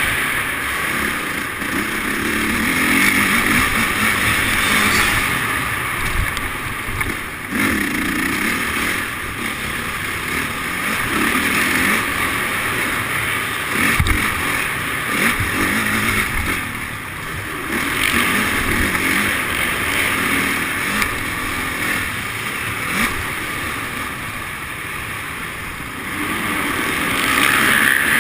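Motocross bike engine running hard and easing off in repeated surges a few seconds apart, as the bike is ridden round a dirt track.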